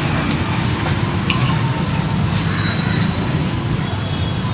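Steady low rumbling background noise, like road traffic, with a few small metal clicks as a piston-pin circlip is worked into its groove.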